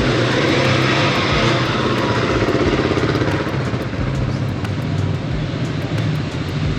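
Motorcycle engine running steadily under way, with a constant rush of wind and road noise over it.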